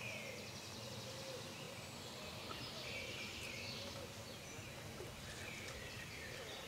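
Steady outdoor background noise with faint bird calls now and then.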